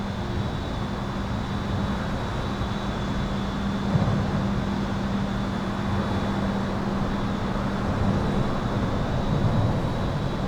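Steady highway traffic noise heard from under an overpass, with a brief louder pass about four seconds in. A steady low electrical hum and a thin, high, steady buzz run underneath it.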